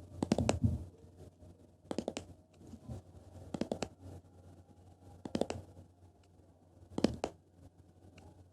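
ASMR tapping with the fingers on an object: five short clusters of quick taps, about one every second and a half.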